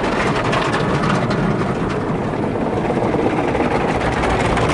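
Belanger tunnel car wash heard from inside the car: a steady rush of soap spray and spinning wash brushes working over the bodywork, with rapid slaps and ticks against the car.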